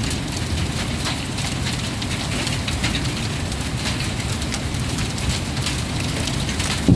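Heavy thunderstorm rain falling steadily, a dense hiss with scattered sharp drop impacts over a low rumble. Right at the very end a loud clap of thunder breaks in.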